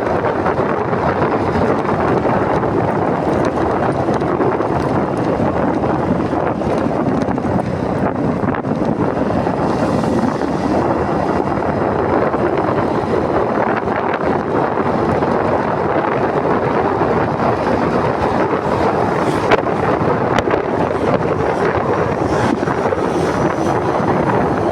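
Steady wind rush buffeting the microphone of a motorcycle on the move, with road noise underneath.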